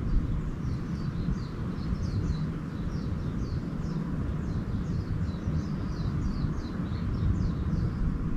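Small birds chirping in a quick, continuous series of short, high, downward-sliding notes, over a steady low background rumble.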